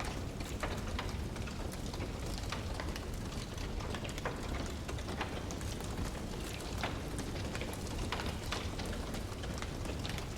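Wood fire burning in a fireplace: irregular sharp crackles and pops of the logs over a steady low rushing hiss.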